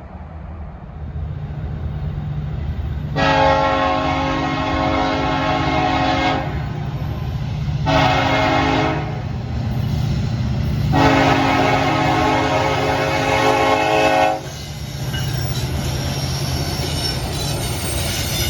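A train's air horn sounds three loud blasts, long, short, then long, over the steady low rumble of the train. After the horn stops, the rumble and rail noise of the passing train carry on.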